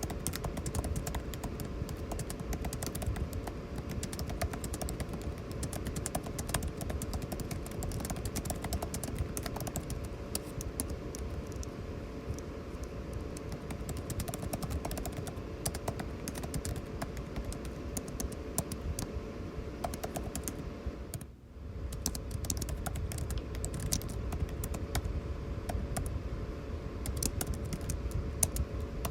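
Typing on a computer keyboard: a dense, irregular patter of key clicks over the steady hum of air conditioning. The sound drops out briefly about three-quarters of the way through.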